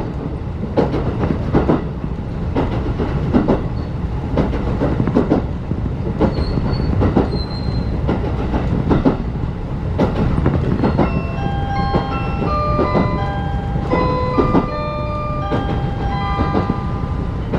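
Interior of a 35-series passenger coach on the move: a steady low rumble of the wheels and bogies with repeated clicks and knocks over the rail joints. In the second half a run of short, clear tones at changing pitches joins in.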